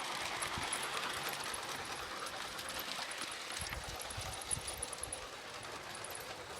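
Garden railway model train running on outdoor track, a steady rolling noise that fades a little.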